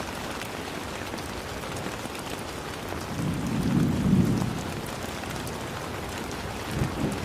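Steady rain hissing, with a low rumble of thunder that swells and fades in the middle and a shorter rumble near the end.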